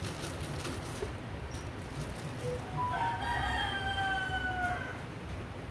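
A rooster crowing once: a single long call of about two seconds, starting about three seconds in, its pitch sinking slightly toward the end.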